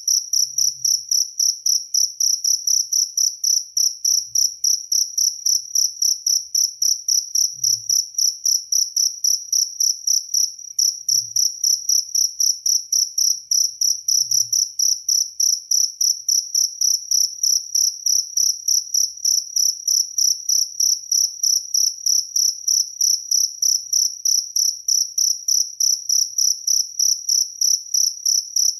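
Jaliteng cricket chirping: a steady, even run of high-pitched chirps, several a second, without a break.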